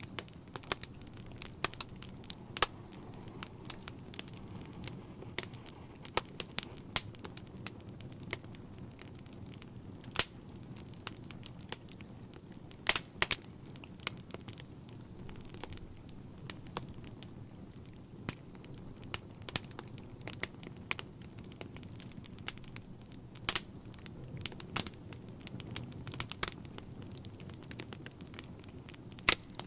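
Wood fire burning in a fireplace: a low steady rumble of flames with irregular crackles and sharp pops from the burning logs.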